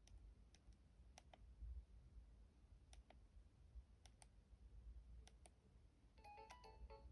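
Faint clicks of a Siemens S75 mobile phone's keys being pressed, mostly in close pairs, a handful over several seconds, as the phone's menu is worked. Near the end a ringtone starts faintly, a quick electronic melody of short beeping notes.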